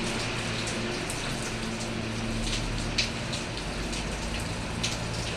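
Steady rain falling, with scattered louder drops or drips striking a surface, the sharpest about three seconds in. A faint low steady hum runs underneath.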